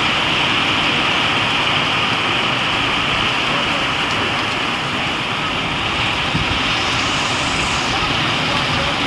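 Heavy rain pouring in a windstorm, a steady even rush of noise.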